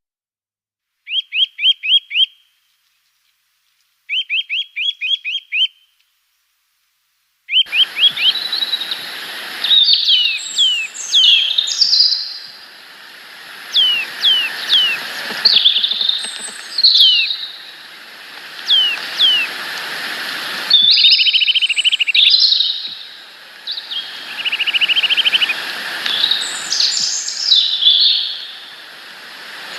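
Small birds chirping and trilling. Two short rapid trills come in the first few seconds, then, over a steady hiss, a busy run of quick chirps, down-slurred calls and brief trills.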